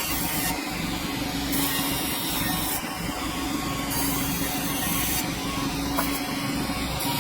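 Sawmill machinery running, a steady hum under a hissing wash of noise.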